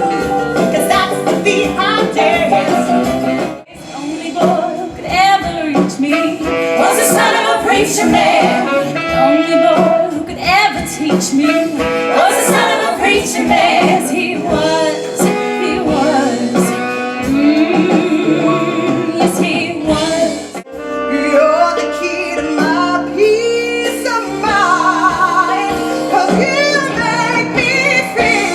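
Women singing 1960s pop songs with instrumental backing, in short excerpts cut together. The music breaks off abruptly twice, once a few seconds in and again past the middle, as one song gives way to the next.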